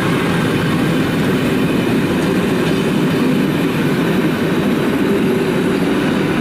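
Historic passenger coaches rolling past close by, a steady wheel-on-rail noise.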